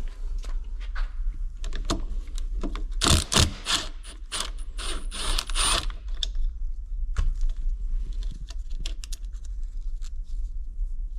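Metal tools and engine parts clicking and clinking during an engine teardown, with a dense run of sharp metallic strikes between about three and six seconds in.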